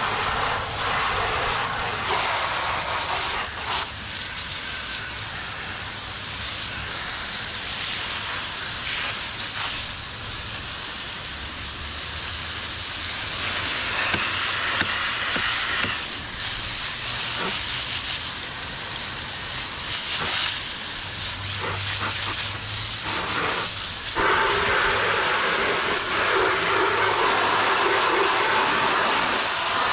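Water spraying in a steady hiss onto a mud-caked pit bike, with a low steady hum underneath; the spray sound grows brighter about 24 seconds in.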